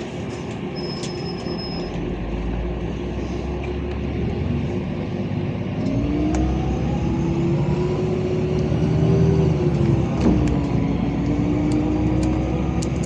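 LiAZ 5292.65 city bus heard from inside the cabin: a low engine rumble with a drivetrain whine that rises in pitch as the bus picks up speed. About ten seconds in the whine dips sharply, then it runs steady.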